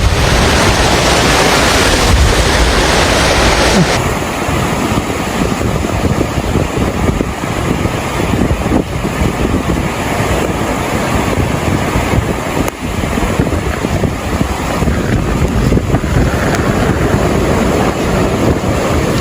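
Loud, steady rushing of floodwater mixed with wind buffeting the microphone. The sound changes abruptly about four seconds in.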